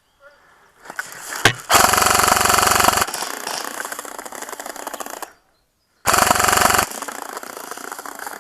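G&P M249 MKII airsoft electric gun firing full-auto, its gearbox rattling rapidly: a burst of about a second and a half, then, after a pause, a shorter burst of under a second.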